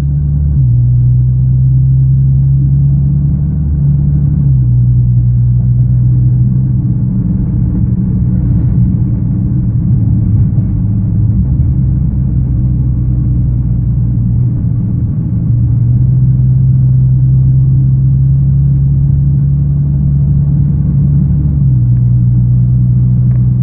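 Nissan GT-R R35's twin-turbo V6 running as the car is driven, a steady low hum and rumble whose pitch steps down about half a second in, again around four and a half seconds, up around fifteen seconds and down again near the end.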